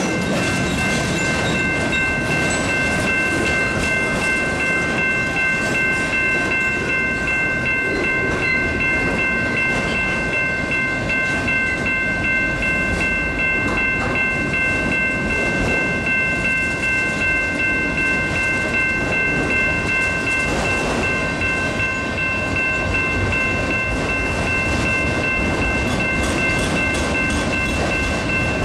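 Freight train of autorack cars rolling steadily past close by, with rumbling wheels and a light clickety-clack over the rail joints. A steady high-pitched ringing made of several tones sits over the rumble without a break.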